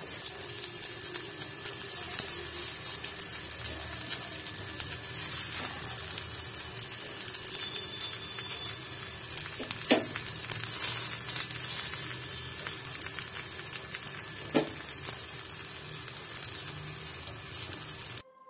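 Stuffed pumpkin slices shallow-frying slowly in a little oil in a frying pan: a steady sizzle with fine crackling, and two sharp clicks around the middle. The sizzle cuts off just before the end.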